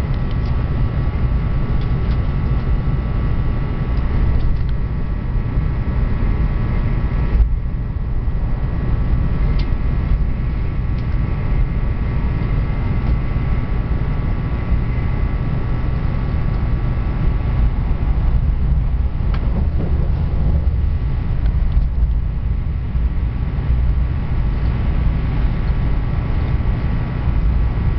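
Train running, a steady low rumble with faint steady tones above it.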